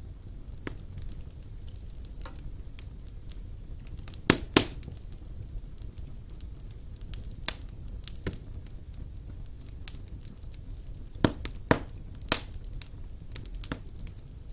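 Wood fire burning in a fireplace: a steady low rumble with sharp crackles and pops at irregular moments. The loudest pops are a pair a little past four seconds in and three more around eleven to twelve seconds in.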